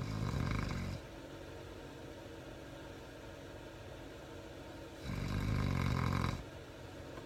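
A sleeping Labrador retriever snoring: two snores about five seconds apart, the second a little longer, over a steady low hum.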